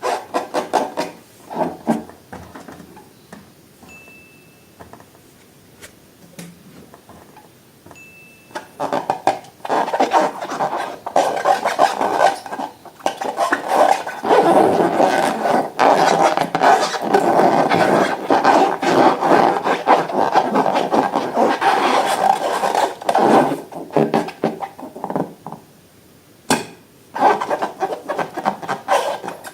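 Slime being mixed and squished against its container: irregular sticky crackling and scraping, sparse at first, then dense and loud through the middle, thinning out near the end.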